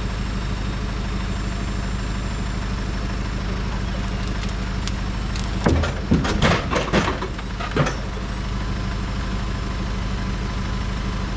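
Engine idling steadily under a low drone, with about two seconds of loud clattering knocks and squeals around the middle as heavy timber is shifted on the mill.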